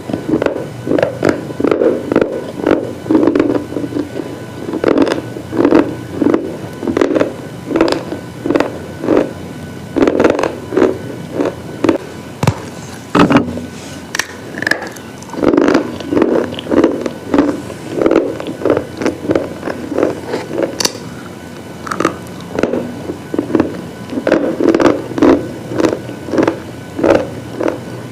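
Brittle slate pieces crunching over and over, about two crunches a second, with a short lull partway through.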